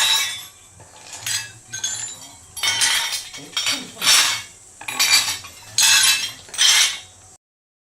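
Fired ceramic pieces clinking and scraping against each other as they are handled out of the kiln: a string of sharp, ringing knocks about a second apart. The sound cuts off abruptly near the end.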